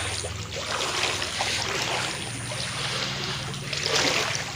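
Floodwater trickling and splashing, a continuous watery hiss with a faint low hum underneath.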